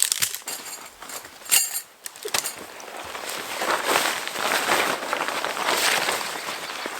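Backpacking tent gear being handled: a few sharp clicks and a loud metallic clink-rattle about one and a half seconds in, then a long stretch of rustling as the tent is unpacked.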